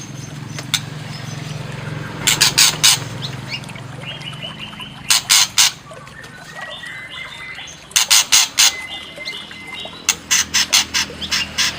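White-rumped shama (murai batu) calling in short bursts of harsh, rasping chatter, four groups in all, with high whistled song notes between them, over a low steady hum.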